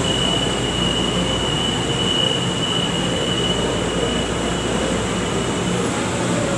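Steady rumble and hiss of an LRT-1 light rail train, with a high, steady squeal of constant pitch that cuts off near the end.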